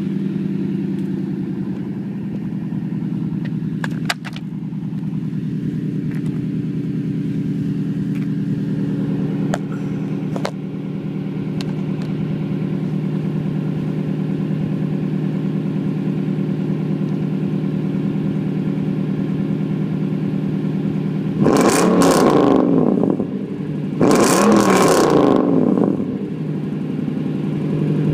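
2008 Toyota Tundra's 5.7-litre i-Force V8 on straight pipes, catalytic converters left in, idling steadily, then blipped twice near the end. There are a couple of short sharp clicks early in the idle.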